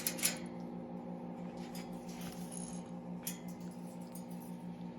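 A steady low hum with a fast regular flutter, with a few faint clicks and rustles over it.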